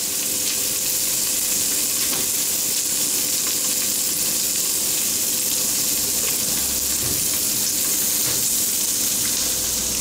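Guanciale sizzling steadily as it browns in a stainless steel pan greased with a drop of olive oil.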